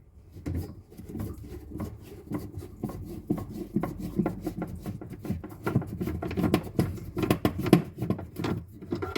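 A screwdriver backing a screw out of a refrigerator's plastic inner panel: a continuous run of small, rapid, irregular clicks and rattles.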